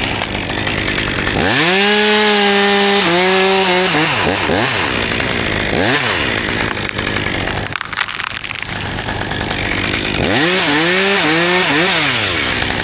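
Two-stroke chainsaw idling, then revved to full throttle twice to cut through a cherry limb, its pitch sagging and wavering as the chain bites into the wood.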